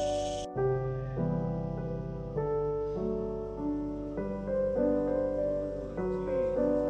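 Background piano music, a slow melody of held notes. A steady hiss under it cuts off suddenly about half a second in.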